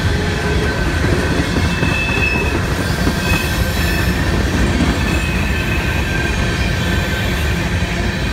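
Empty covered hopper cars of a freight train rolling past at steady speed: continuous wheel-on-rail rumble and rattle, with high wheel squeal coming and going.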